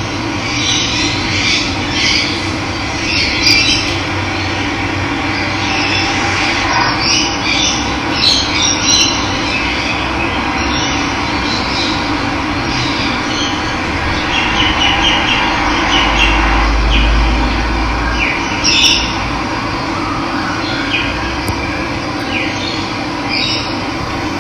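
Steady rush of running water with birds chirping and calling over it, and a brief low rumble about two-thirds through.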